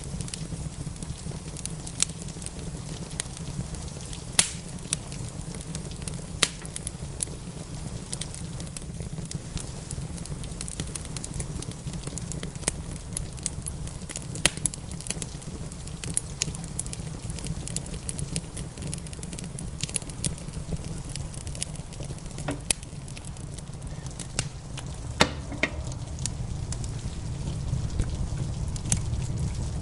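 Crackling wood fire: irregular sharp pops and snaps over a steady low rumble, with a steady patter of rain underneath.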